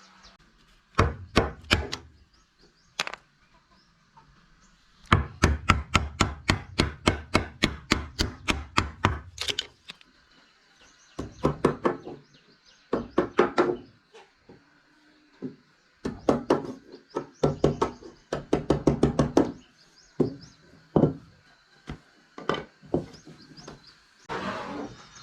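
Hand tool striking wood in runs of quick, sharp blows, about four or five a second in the longest run, with short pauses between runs.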